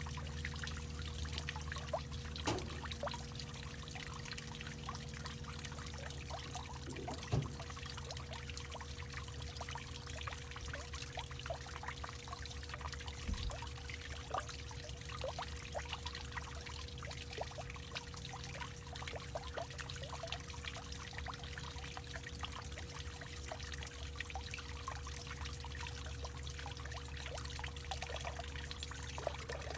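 Water trickling and dripping in a hollowed-out tree trunk: a steady patter of small drips and splashes, with a few louder drops, over a faint steady low hum.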